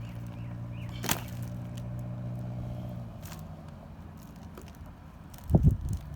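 A car engine running steadily nearby, its hum dropping back after about three seconds. A sharp click about a second in, and a few heavy thuds close together near the end.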